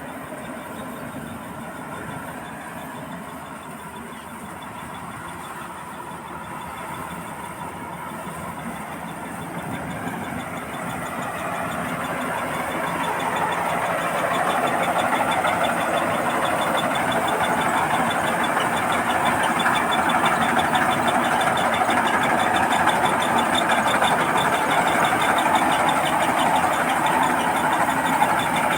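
Combine harvester running as it harvests rice, a steady engine and machinery noise that grows louder over several seconds about a third of the way in, then holds steady.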